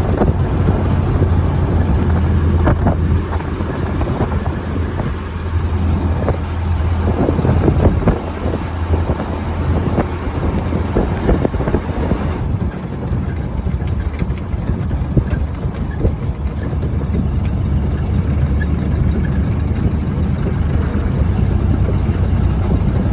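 1931 Ford Model A pickup's four-cylinder engine running as the truck drives, a steady low drone with road noise and scattered rattles. About halfway through, the higher noise falls away and the drone goes on.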